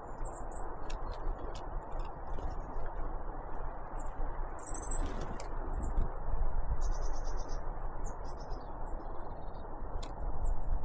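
Small songbirds (tits) giving short, high-pitched chirps and call notes: scattered single notes, one louder call about five seconds in, and a quick run of repeated notes around seven seconds, over a steady rushing noise with a few sharp clicks.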